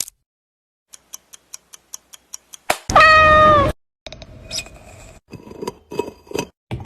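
A run of evenly spaced ticks, about five a second, then a cat meows once loudly, a single call under a second long falling slightly in pitch. Irregular clattering and rustling follow.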